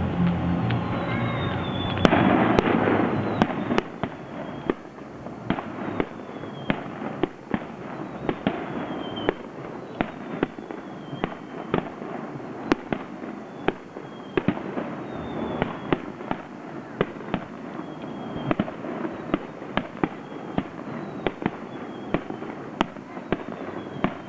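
Aerial fireworks going off: shell bursts and bangs about one or two a second, with short falling whistles between them. The loudest burst comes about two seconds in.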